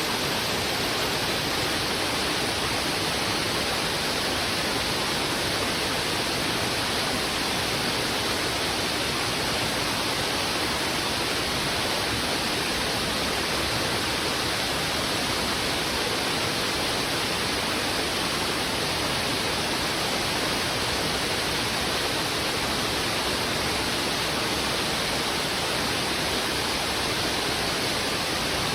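Fast-flowing river water rushing over rocks: a steady, unbroken rushing sound at an even level.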